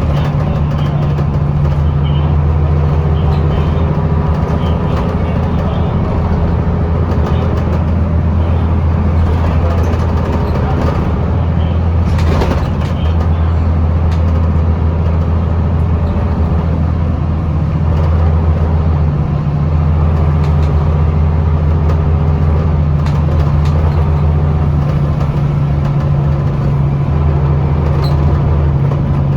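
Scania L94UB bus's diesel engine and ZF automatic drivetrain droning steadily, heard inside the cabin while the bus cruises. There is a single brief knock about twelve seconds in.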